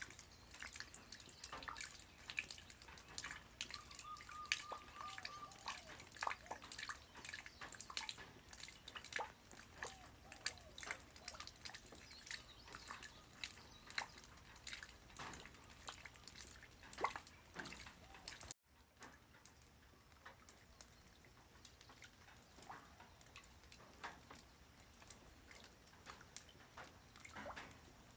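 Light rain falling on the ground, heard as many separate drops and drips striking close by over a faint hiss. About two-thirds of the way through the sound cuts out for an instant, and after that the drops come sparser and quieter. A faint, short, steady high tone sounds about four seconds in.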